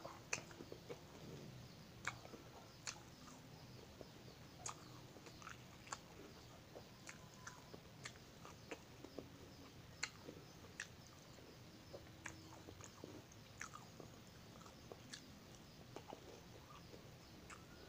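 Quiet chewing of crisp fried fish crackers, with sharp, irregular crunches about once a second.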